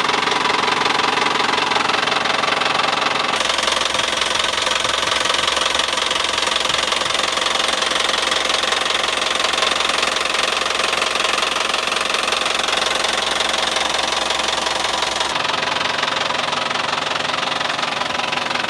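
Isuzu Traga's diesel engine idling with a steady diesel clatter while it runs on purge cleaning fluid fed from a bottle. The sound changes abruptly about three seconds in and changes back near the end.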